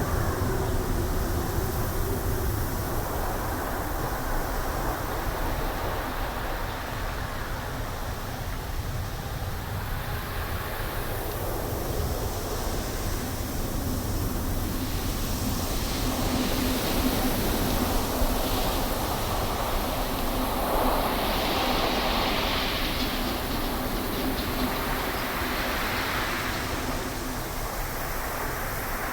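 Wind blowing through trees: a steady rush with deep rumble, swelling in gusts that turn brighter about halfway through, and a faint low howling tone now and then.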